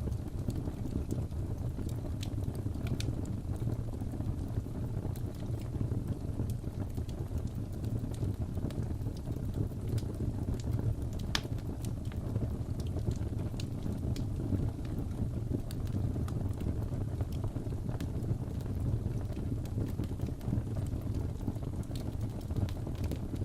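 Wood fire crackling in a fireplace: a steady low rumble of burning with scattered sharp pops and snaps, one louder snap about eleven seconds in.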